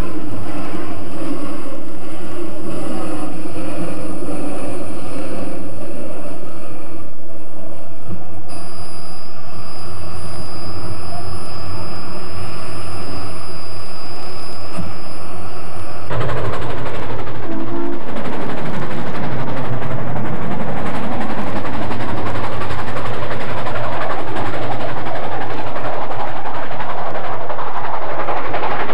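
Railway sound: a steady mechanical hum, joined partway through by a thin high whine, changes abruptly about halfway to the loud rushing noise of a train running.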